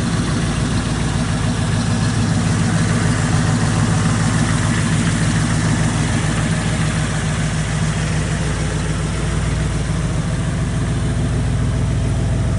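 Ford 302 (5.0-litre) V8 of a 1975 Ford F-150 idling steadily.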